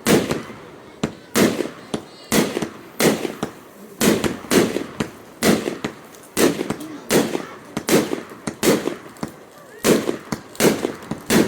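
Fireworks display: a steady run of sharp bangs, about two a second, each trailing off in a short echo.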